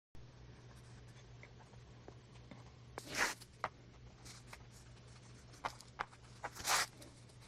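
Hands working with paper and trim at a craft table: light rustles and small clicks, with two short ripping rasps, one about three seconds in and one near the end, over a low steady hum.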